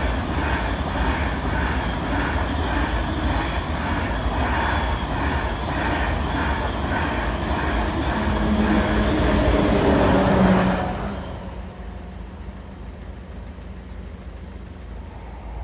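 A train passing close by: loud rail and wheel noise with a regular pulse about twice a second, plus a steady hum that swells just before the noise drops away sharply about eleven seconds in, leaving a fainter hum.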